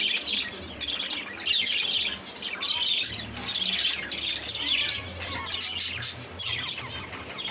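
Many small caged birds, finches and budgerigars, chirping and chattering together in a dense, continuous chorus of short high calls.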